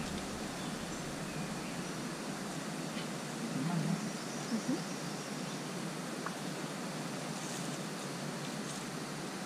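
Steady outdoor background noise with a few faint, short, high chirps, and a couple of brief low bumps about four seconds in.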